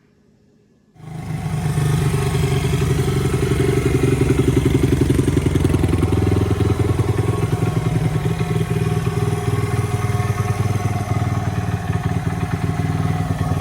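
Honda XR100R's single-cylinder four-stroke engine running steadily, cutting in suddenly about a second in.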